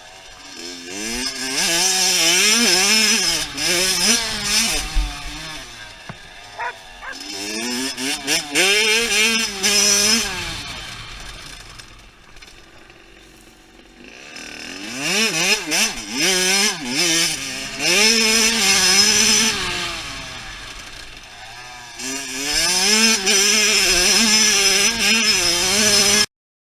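Dirt bike engine, a Kawasaki KX85 two-stroke, revving hard and easing off as it rides, the pitch rising and falling through the gears. It comes in four loud passes with quieter dips between, and cuts off suddenly near the end.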